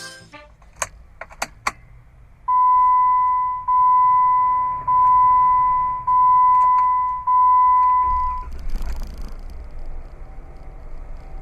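A few sharp clicks, then an electronic chime sounding five times at one steady pitch. Each chime lasts about a second and fades before the next. A low rumble follows near the end.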